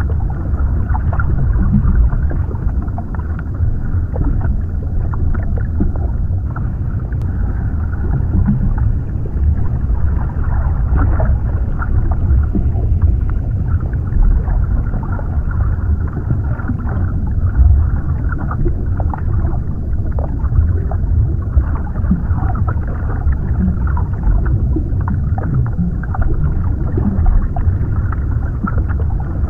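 Underwater ambience: a steady deep rumble and muffled water movement, with small crackles and gurgles throughout.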